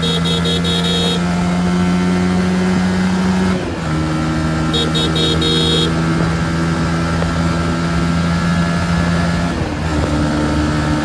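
Honda CB150R's single-cylinder engine running at steady high revs, its note holding one pitch and easing off briefly twice, a few seconds in and near the end.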